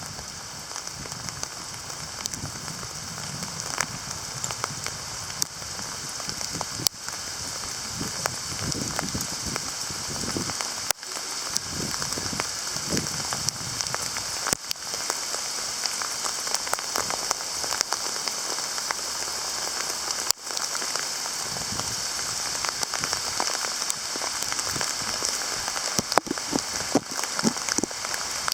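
Hail falling and striking hard surfaces: a dense, continuous patter of many small ticks. Louder sharp cracks are scattered through it and grow more frequent near the end.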